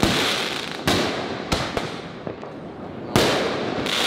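Aerial fireworks bursting overhead: about six sharp booms in four seconds, two of them close together about a second and a half in, each fading off over a dense crackle of falling sparks.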